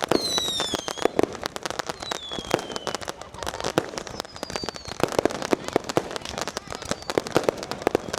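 Dense fireworks and firecrackers going off all around in a rapid, irregular crackle of bangs. Whistling fireworks add falling whistles, a strong one near the start and fainter ones later.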